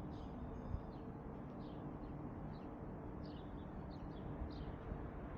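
Small birds chirping: short, high, falling chirps repeating about twice a second over a steady low background rumble.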